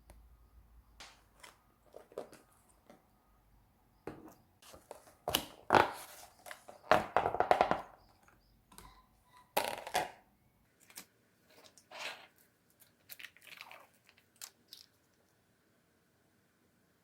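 Irregular rustling, crinkling and knocks of things being handled, loudest in a cluster a few seconds in, then dying away.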